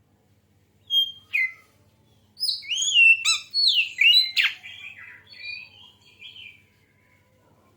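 Oriental magpie-robin (kacer) singing: two short whistled notes, then a loud phrase of varied sliding whistles and chatter lasting about four seconds, fading out near the end.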